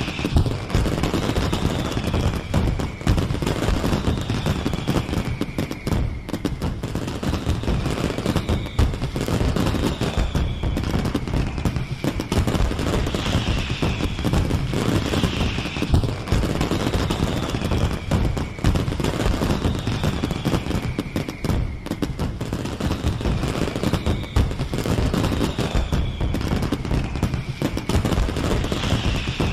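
Fireworks display: a dense, continuous crackle of rapid bangs and pops, with a high falling whistle repeating about every second and a half.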